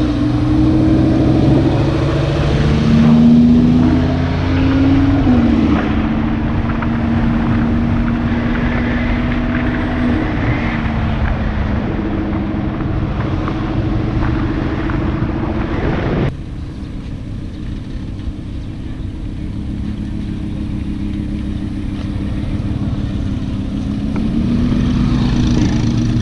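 Lamborghini Huracán's V10 engine through an Fi Exhaust system. It rises in pitch briefly a few seconds in, falls back, then runs at a steady pitch. The sound drops suddenly in loudness partway through and picks up in pitch again near the end.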